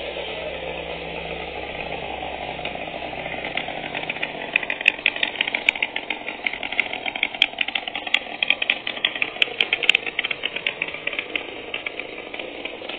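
Small two-stroke engine running steadily on test. From about four seconds in until near the end, a fast, irregular metallic rattling clatter rides over it and is the loudest sound.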